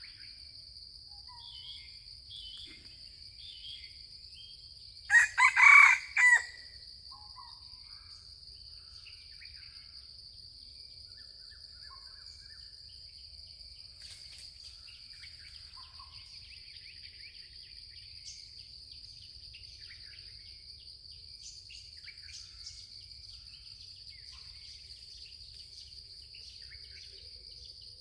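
A junglefowl cock crows once, loud and short, about five seconds in. A steady high-pitched insect drone runs underneath, with faint bird chirps scattered through.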